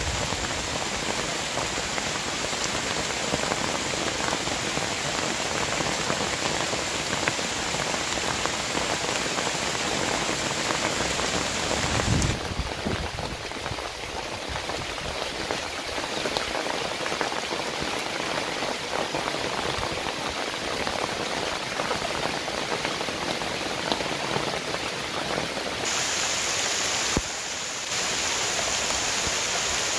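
Steady rain falling on a grass-thatch roof and the broad leaves around it, a dense, even hiss. Its tone shifts slightly about twelve seconds in and again near the end.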